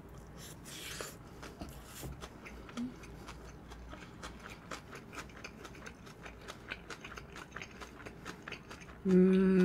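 Close-miked chewing of flying-fish-roe bibimbap: a steady run of small wet clicks and crunches, with a couple of soft rustles in the first two seconds. Near the end comes a short hummed "mm" with a falling pitch.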